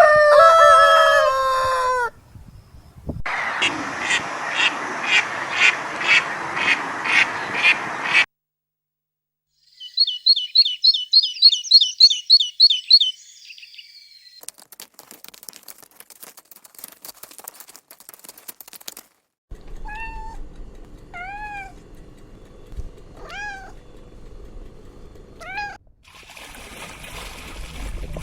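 A run of short animal-sound clips, one after another. First the falling end of a rooster's crow, then about nine rapid calls in a row, then a quick series of high chirps, faint crackling, and several short rising-and-falling calls spaced a second or more apart.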